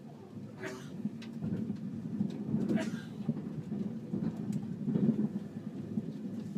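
Low, uneven rumble of a train running, heard inside the passenger car, swelling and easing, with scattered light knocks and rustles from the phone being handled as it turns.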